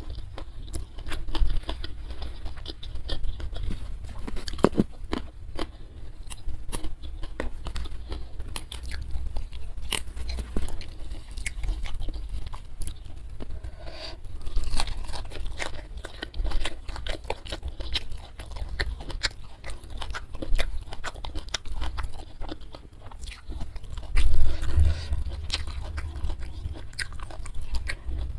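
Close-miked eating: a person biting and chewing food by mouth, with many small irregular crunches and wet mouth clicks.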